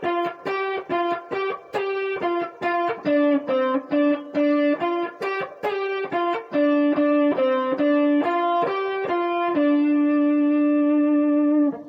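Guitar playing a single-note blues phrase. The notes are picked one at a time, about three a second at first, then slowing. It ends on a long held low note that stops abruptly just before the end.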